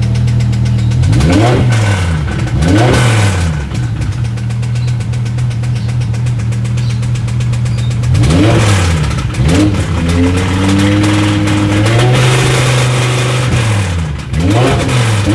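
BMW E60 M5's V10 engine idling and revved in several quick throttle blips, once held higher for a couple of seconds before dropping back to idle. The owner suspects rod knock but is not sure.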